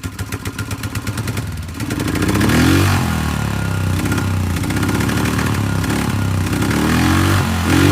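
Polaris 500 HO ATV's single-cylinder four-stroke engine running at an even, rapid idle beat. From about two seconds in it is revved several times, the pitch rising and falling with each blip of the throttle.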